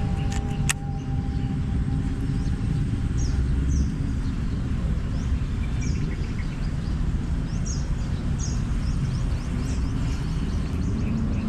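Small birds chirping in short, high, falling calls, repeated every second or so, over a steady low rumble. A couple of sharp clicks sound just at the start.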